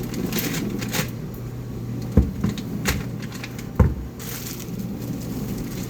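Kitchen items being handled and set down on a counter: small clicks and rustles with two sharp knocks, about a second and a half apart, over a steady low hum.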